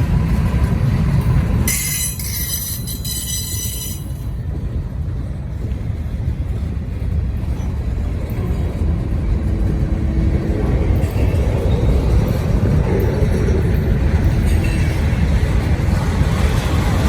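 Freight train rolling past with a steady low rumble of wheels on rail, and a high wheel squeal that cuts in for about two seconds near the start.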